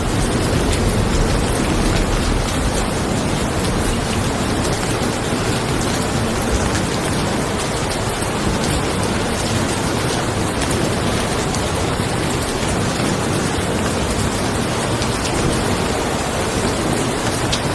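Steady rain falling on a car, an even hiss of drops, with a low thunder rumble that eases off about halfway through.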